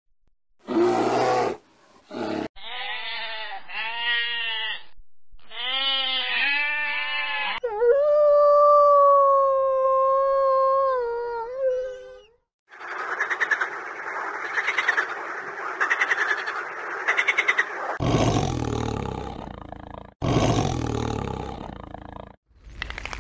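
A run of different animal calls, one after another: short growling roars at first, then two series of rising-and-falling pitched calls, a long held pitched call of about four seconds, a noisy stretch with a regular pulse, and deep pulsing roars near the end.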